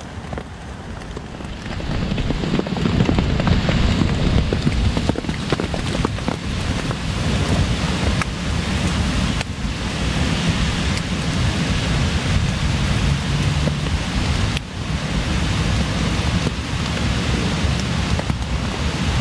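Heavy rain falling steadily, with gusting wind buffeting the microphone as a low rumble. It gets louder about two seconds in.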